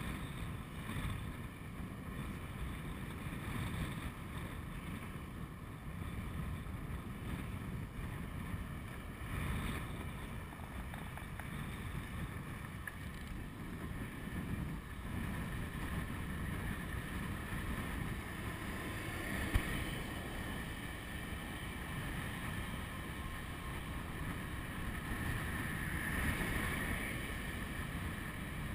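Wind buffeting the microphone of a chest-mounted camera on a moving electric bicycle, with a steady whine from the bike's Golden Motors 48-volt 1000-watt rear hub motor that rises in strength twice in the second half. A single sharp click sounds about two-thirds of the way through.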